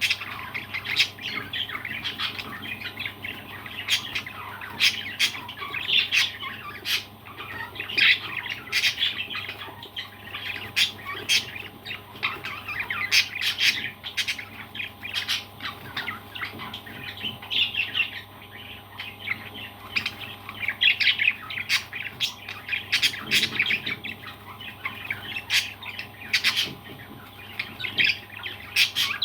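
Parrots squawking and chirping in a constant stream of short, sharp calls.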